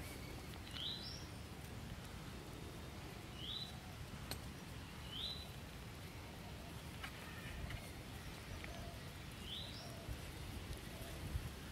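A bird calling over quiet outdoor background noise: four short, high, upward-sweeping chirps, a few seconds apart, the first and last stepping up higher at the end.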